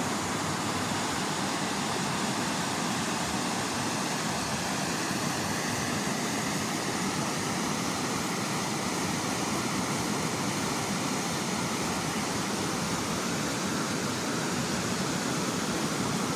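Floodwater rushing over a bridge: a steady, unbroken rush of noise.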